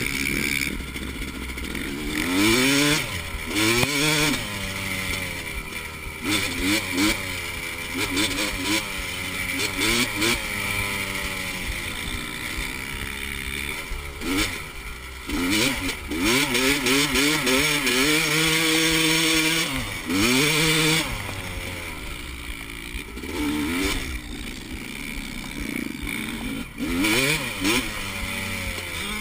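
Single-cylinder four-stroke dirt bike engines revving, the pitch climbing and dropping off again and again as the riders work through the throttle and gears, with one long held high-rev stretch past the middle.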